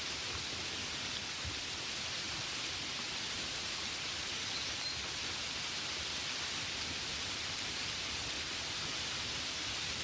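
Gentle rain falling steadily on a window, heard as an even hiss with no distinct drops standing out.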